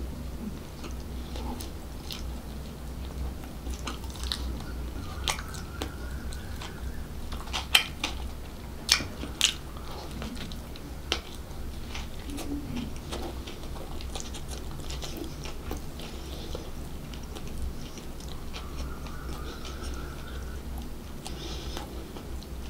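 Close-miked biting and chewing of a soft bread bun, with a few sharp clicks around the middle, over a steady low hum.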